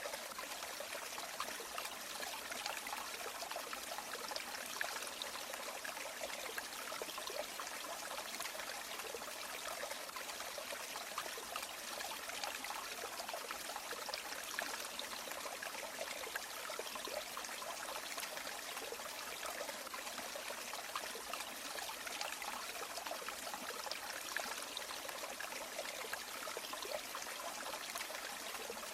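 Shallow river or stream flowing steadily over stones, a continuous babbling and trickling.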